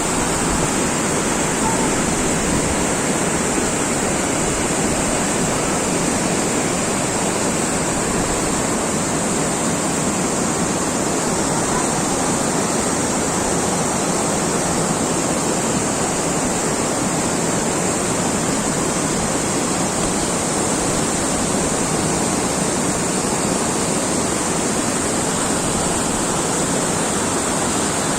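Steady rushing water, an even roar with no surges, with a constant high-pitched hiss over it.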